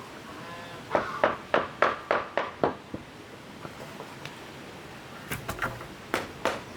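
A quick run of about eight sharp knocks, then a few more knocks a couple of seconds later.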